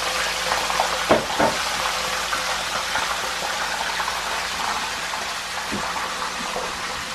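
Tofu cubes frying in hot oil in a shallow electric frying pan, cooking crisp: a steady sizzling.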